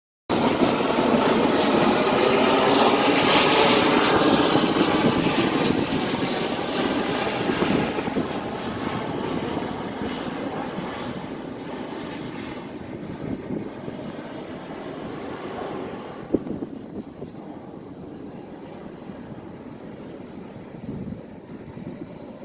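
Airplane flying overhead: a loud rushing engine noise at the start that slowly fades as it passes away.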